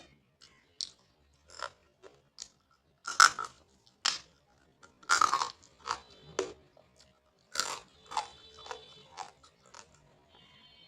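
Close-miked eating: a person chewing and biting food with crunchy bites, in irregular bursts, the loudest about three and five seconds in.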